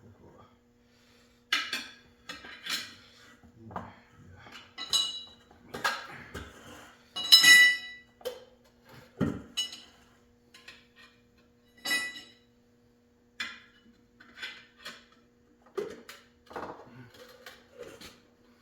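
Metal tyre levers clanking and scraping against a motorcycle wheel rim as a tyre is worked onto it, in irregular knocks. A few knocks ring briefly, and the loudest clatter comes about halfway through. A faint steady hum runs underneath.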